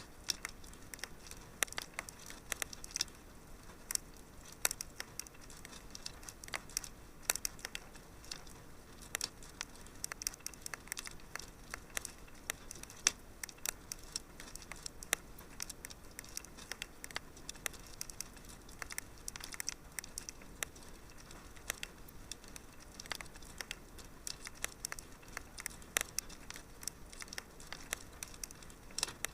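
Wood fire crackling in a fireplace: irregular sharp pops and snaps scattered through the whole stretch over a soft steady hiss.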